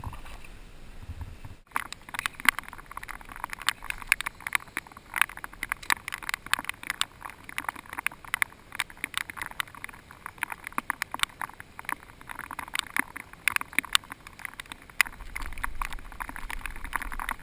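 Rain ticking on the camera housing and boat: a dense, irregular run of sharp drop impacts, many a second, starting abruptly about two seconds in.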